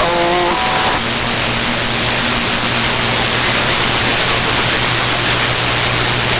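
CB radio receiver hissing loudly with static on an open channel. A brief tone sounds in the first half second, then a steady low hum comes in under the hiss about a second in, as from an unmodulated carrier.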